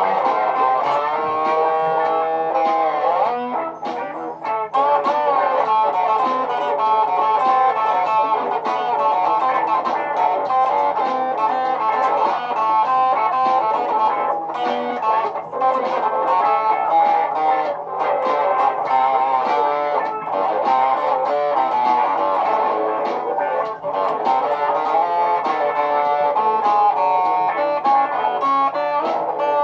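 Layered guitar loops playing together as a live-looped track, with a few notes bending in pitch about two seconds in.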